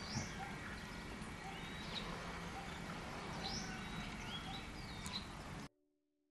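Outdoor ambience: a steady background hiss with birds chirping now and then, about five short calls. The sound cuts off abruptly near the end.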